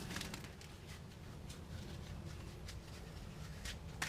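Faint scattered clicks and handling knocks, about one every half second, over a low steady hum.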